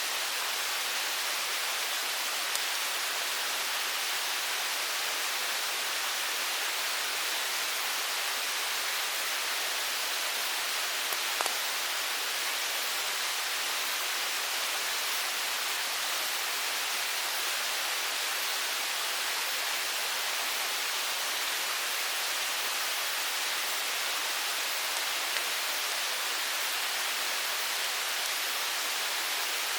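Mountain stream flowing: a steady, even rushing of water, with a faint click or two about eleven seconds in.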